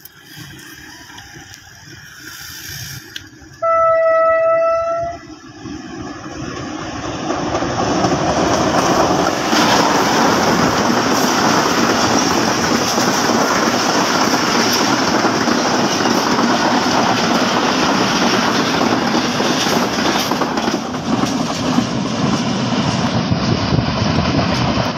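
Fast passenger train approaching, its horn sounding one long blast of about a second and a half about four seconds in. From about seven seconds in, the train runs close past at speed, a loud, steady rush of wheels rattling over the rails that holds to the end.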